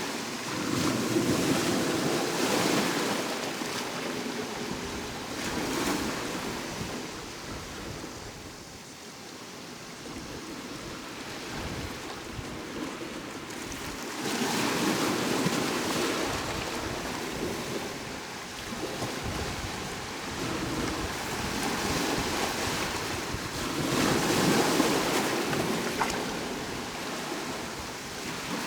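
Ocean waves breaking on the shore in three swells of surf about ten seconds apart. Each swell rises and then fades into a softer wash.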